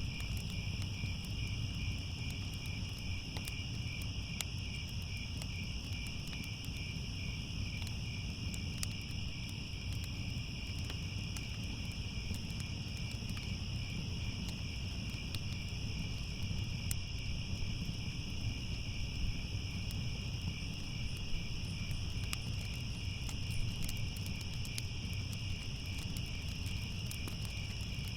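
Crickets chirping in a dense, steady chorus, with a low rumble and scattered faint crackles beneath.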